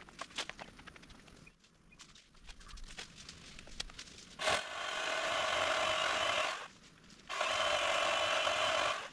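Pole saw cutting a tree limb: two long, even bursts of sawing of about two seconds each, starting about halfway in, after a few seconds of light crackling from branches.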